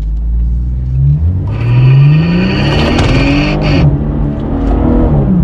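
BMW 340i's turbocharged straight-six accelerating hard, its note rising steadily and then falling away near the end. From about one and a half seconds in, a grinding noise sounds for about two seconds over the engine: a handbrake cable, loose because its broken plastic retaining clip no longer holds it, rubbing against the driveline under high acceleration.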